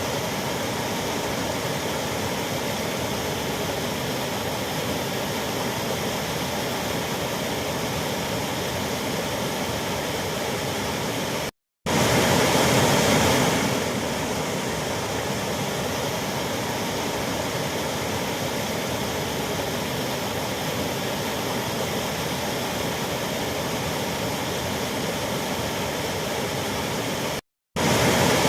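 Waterfall: a steady rush of falling water. The sound cuts out twice for an instant, about twelve seconds in and again near the end, and comes back a little louder for a couple of seconds each time.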